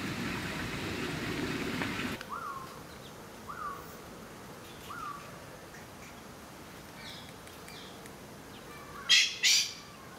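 A steady murmur of outdoor background noise that drops away about two seconds in, then a bird calling: three short rising-and-falling notes about a second and a half apart, followed near the end by two loud calls in quick succession.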